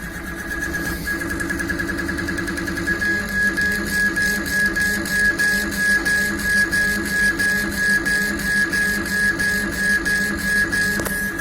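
KAMACH 1610 laser engraving machine's stepper motors driving the head back and forth, a steady high whine with pitched pulses that settle into an even rhythm of about three a second from about three seconds in.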